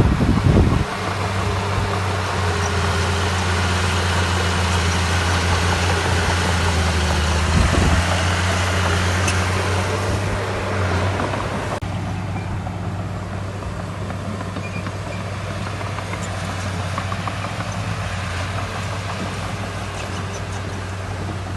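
Heavy diesel engine of earthmoving machinery running with a steady low hum and a rattling wash of higher noise. There are two short loud knocks, one right at the start and one about eight seconds in. About halfway through the higher noise suddenly falls away, leaving a quieter, steadier engine hum.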